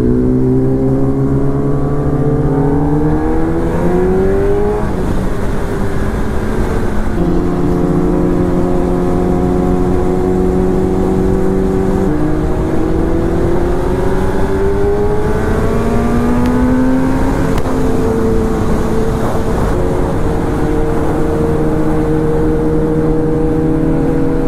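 Sport bike's engine heard from the rider's seat, pulling up through the gears: its note climbs and drops back at each of several gear changes, then holds steady at a cruise for the last several seconds, with wind rumble over the microphone.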